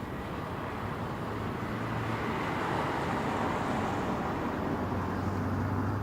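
BMW 6 Series Gran Coupe driving, its engine hum and road noise growing gradually louder before cutting off suddenly at the end.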